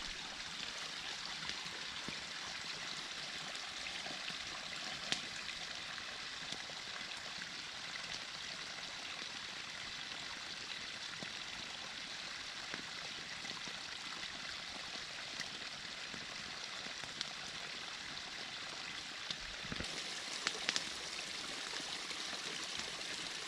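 Creek water running with a steady, even rush, with a few faint clicks in between.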